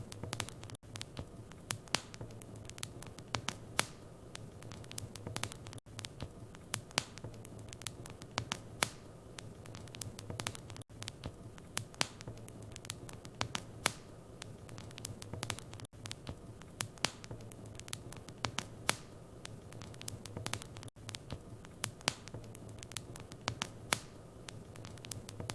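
Wood fire burning in a fireplace, crackling with many irregular sharp pops and snaps over a low steady rumble of the flames. The sound drops out for an instant about every five seconds, as in a looped recording.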